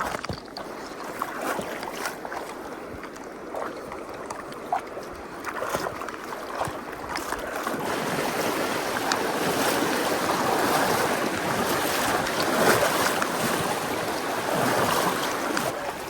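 Rushing river water that grows louder about halfway through and then holds steady, with scattered footsteps on a trail over it.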